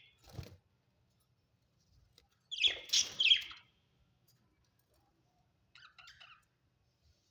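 Budgerigar giving a few short, loud chirps about three seconds in and fainter chirps near the end, with quiet gaps between.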